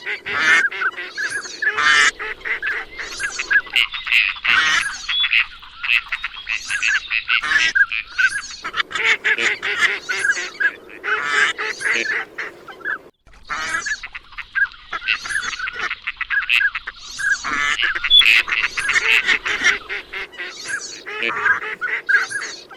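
A flock of waterfowl calling: dense, overlapping honks repeated almost without a break, geese with ducks among them.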